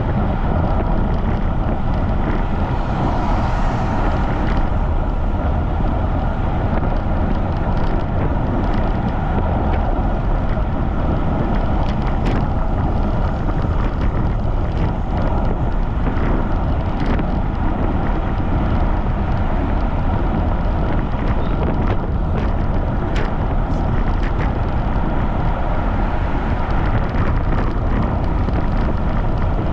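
Strong wind buffeting the microphone of a camera riding on a moving bicycle: a loud, steady rushing rumble, with a few faint ticks now and then.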